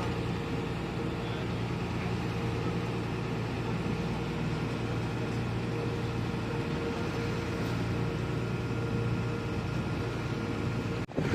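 Boat engine running with a steady drone and a constant low hum, heard on board. The sound cuts off abruptly for a moment near the end.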